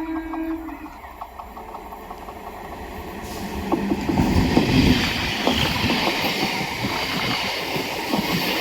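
Katwa–Howrah EMU local train approaching and passing, growing louder from about three seconds in into a steady rumble of wheels on the rails with many rapid clicks.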